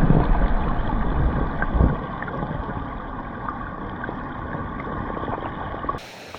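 Mountain stream water running as a steady rush, with low rumbling knocks from handling in the first two seconds. The sound cuts off abruptly near the end.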